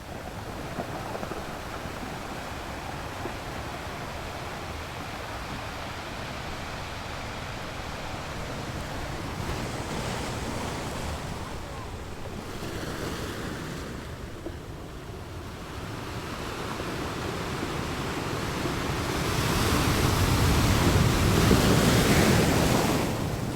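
Steady outdoor rushing of wind and water, swelling louder near the end.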